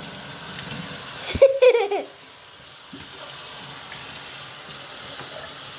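Tap water running steadily into a bathtub, an even hiss. About a second and a half in there is a knock, then a short, high, falling vocal sound.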